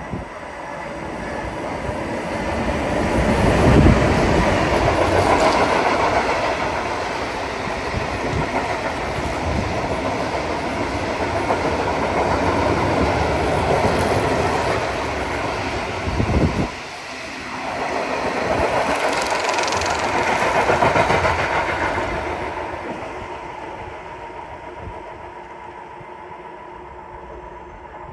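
A train running through the station, its wheels knocking as it goes. The sound builds to a peak about four seconds in and dips sharply around seventeen seconds. It swells again, then fades away over the last few seconds.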